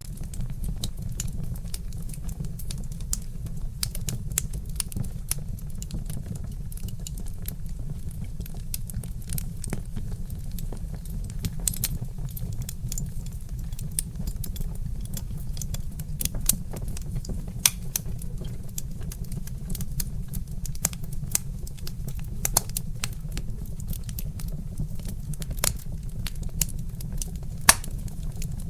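Wood fire crackling, with frequent irregular sharp pops and snaps, a few louder than the rest, over a steady low rumble.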